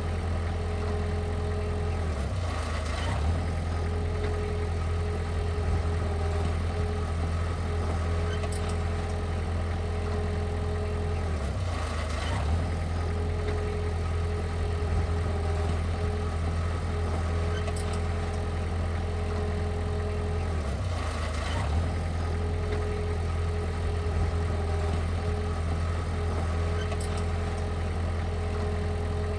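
Heavy equipment's engine running steadily with a deep, even hum, its note briefly changing about every nine seconds.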